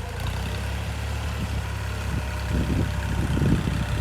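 A vehicle engine running steadily with a low hum, with an uneven low rumble growing louder from about halfway in.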